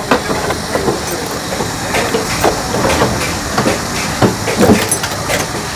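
Motorcycle being kick-started again and again, with repeated mechanical knocks as the kick-starter turns the engine over without it catching: the anti-theft immobilizer has cut the ignition.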